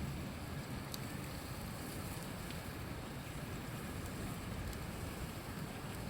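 Steady rushing of a river, with a few faint crackles from a wood campfire.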